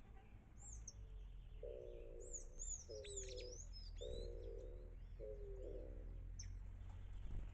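Several small birds chirping in quick high calls, with a dove cooing in four low phrases through the middle.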